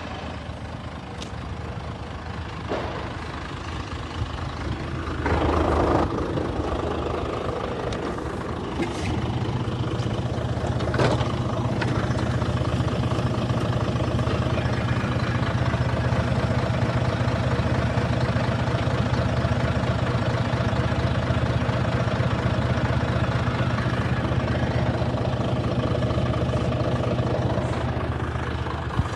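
Scania 94 260 truck's nine-litre six-cylinder diesel idling steadily. About nine seconds in it becomes louder and deeper, and a brief rushing noise comes just before that.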